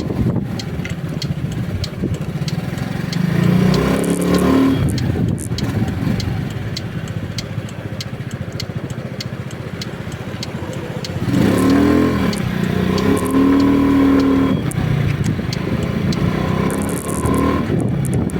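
Road vehicle on the move in the rain: its engine pulls up through the revs at about four seconds and again from about eleven to fifteen seconds, over steady wind and road noise with a scatter of sharp ticks.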